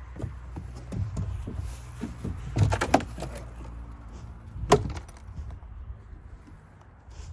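Knocks and clunks from things being handled: a quick run of clattering knocks about two and a half seconds in and a single sharp knock a couple of seconds later, over a low steady rumble.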